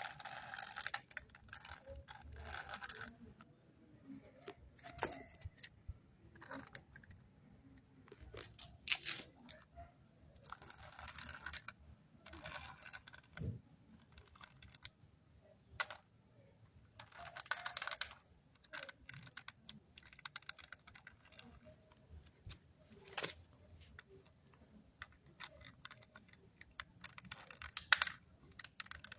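Handling noise: irregular clicks and rattles with repeated short scraping or rustling bursts, and one sharper knock near the end.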